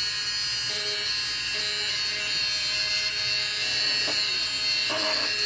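Small DC hobby motor of a homemade mini machine running steadily at speed, a continuous high buzzing whine, with a brief noisier burst about five seconds in.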